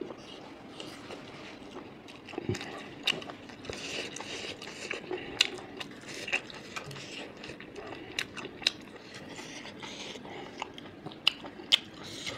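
A person chewing a mouthful of pork intestine and rice close to the microphone, with frequent sharp wet mouth clicks at an irregular pace.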